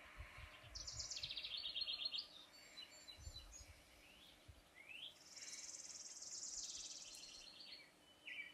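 Faint birdsong: rapid high trills about a second in and again about five seconds in, with short rising chirps between them.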